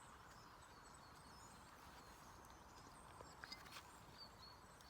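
Near silence: quiet forest ambience with a few faint high chirps and a few soft clicks about three and a half seconds in.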